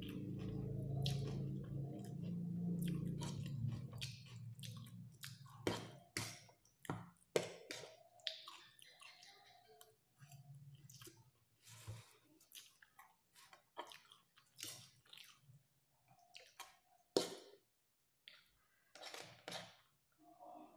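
A person chewing a mouthful of fried noodles at close range: wet clicks and crackles of chewing, with a few sharp clinks, such as a fork against a steel plate. A low hum sounds under it for the first four seconds, then stops.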